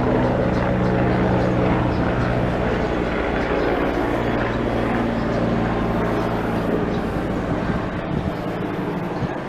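A steady engine drone with a low pitched hum, easing off slightly near the end.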